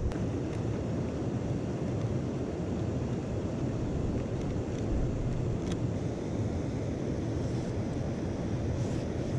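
Steady rushing of a mountain stream, with a few faint clicks over it.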